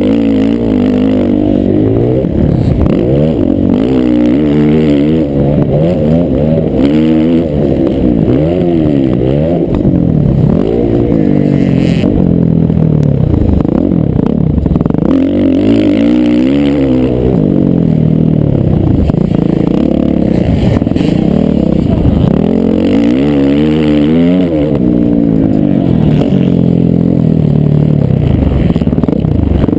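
Several motocross dirt bikes racing, their engines revving up and falling back again and again as they shift and throttle, the notes overlapping one another.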